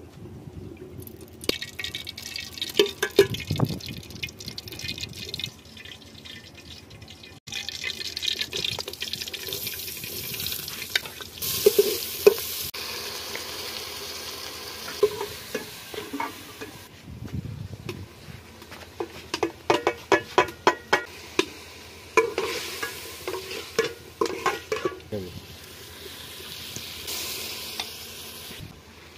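Chicken and onions frying in oil in an aluminium cooking pot, sizzling, while a steel ladle stirs the pot, clinking and scraping against it in quick runs of knocks. The sound changes abruptly several times as the takes cut.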